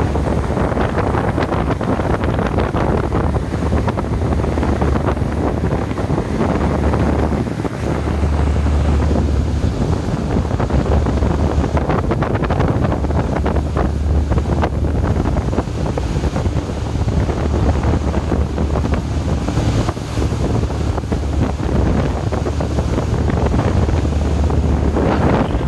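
Heavy wind buffeting the microphone over rushing water from a catamaran's wake, with a low rumble that drops out briefly a few times.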